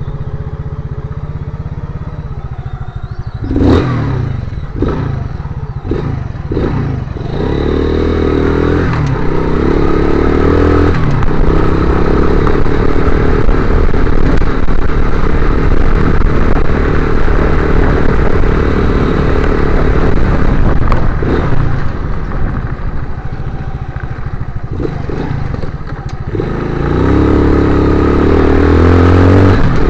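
Motorcycle engine running while riding, with a run of sharp clattering knocks about four seconds in. The engine then pulls harder, eases off for a few seconds near the end, and picks up again.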